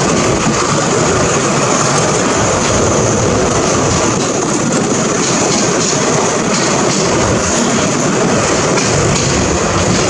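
Express passenger train running along the track, heard from an open carriage window: a steady, loud rush of wheel-on-rail and passing-air noise.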